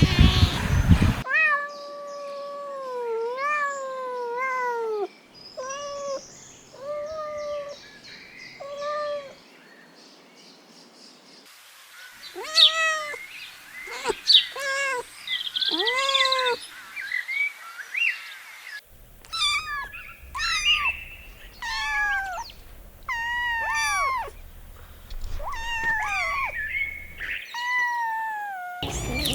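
Kittens mewing: a long series of short, high mews, some sliding up or down in pitch, in several separately recorded stretches.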